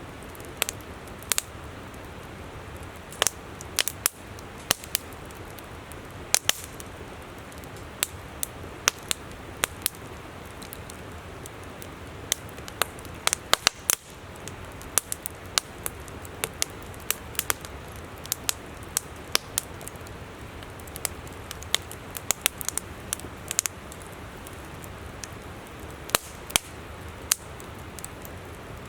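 Wood campfire crackling, with irregular sharp pops several times a second over the steady rush of a flowing river.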